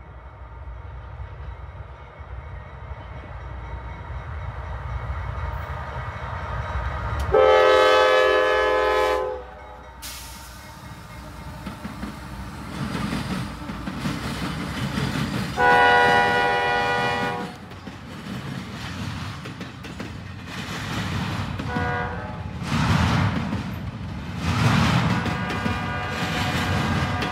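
CSX freight train approaching with a building low rumble, its locomotive air horn sounding two long blasts about seven and sixteen seconds in and a short one near twenty-two seconds. The lead diesel locomotives pass, then the rumble and clatter of double-stack intermodal container cars rolling by.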